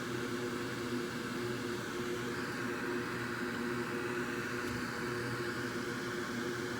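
Steady electric fan whir with a constant low hum, from the bench equipment of a microsoldering station.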